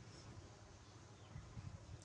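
Near silence: faint room tone with a few soft low bumps about a second and a half in.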